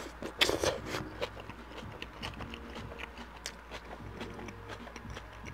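Close-miked wet chewing of a mouthful of sandwich and lettuce: a loud wet slurp about half a second in as the lettuce hanging from the lips is drawn in, then soft irregular smacking and clicking of the mouth.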